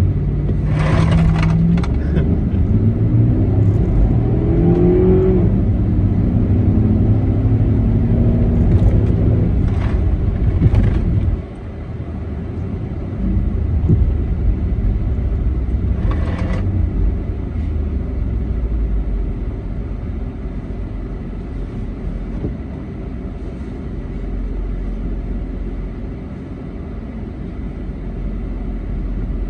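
A 2009 Jeep Commander's 5.7 L Hemi V8 revving hard, climbing in pitch over the first few seconds as the tyres spin in snow. About eleven seconds in it drops off suddenly and runs on at a lower, steadier note, with a few short rushing bursts.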